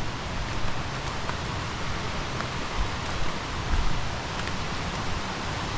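Steady rushing of a nearby waterfall, with a few faint low thumps.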